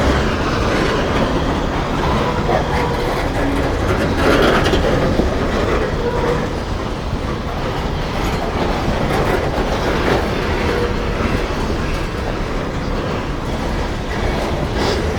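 A long train's rail cars rolling steadily past, wheels clicking over the rail joints.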